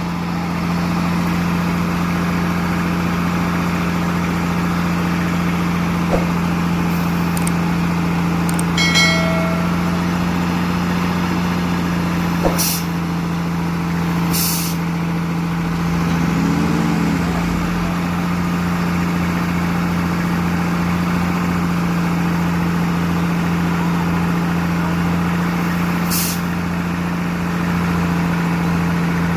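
Heavy tow truck's diesel engine running at a steady drone. There is a short squeal about nine seconds in, and three sharp air hisses: two close together near the middle and one near the end.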